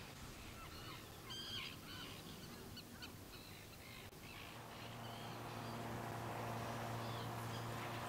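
Several short bird calls in the first half. From about halfway a steady low hum with several even tones sets in and becomes the loudest sound.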